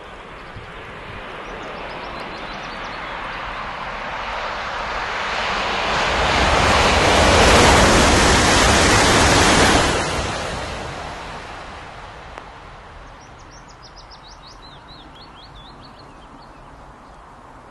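A train passing at speed: a rushing noise that builds for several seconds, peaks, drops off sharply about ten seconds in and then fades away.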